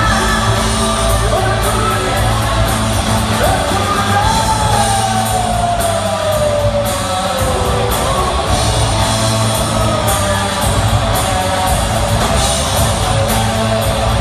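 Live rock band playing, with singing, echoing in a large hall. A long falling pitch glide sits in the middle.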